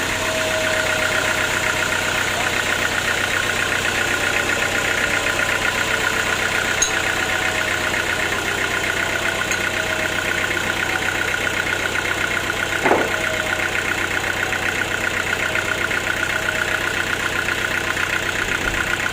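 Sawmill machinery running steadily with a fast, even pulsing hum, and one short clunk about two-thirds of the way through.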